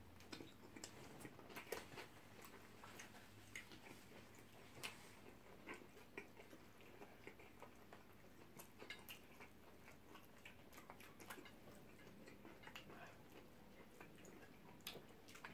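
Faint chewing of shawarma wraps by several eaters, soft wet mouth clicks and smacks scattered irregularly over a very quiet background.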